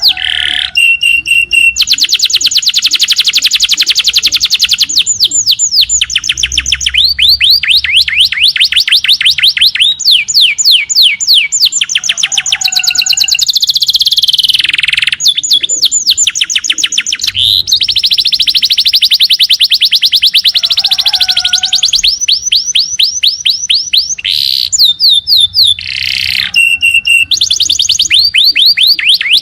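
Small songbirds singing loud, rapid trills: long runs of high, quick downward-sweeping notes, the fast 'tembakan' phrases prized in bird-training recordings, broken by short pauses and brief lower call notes between runs.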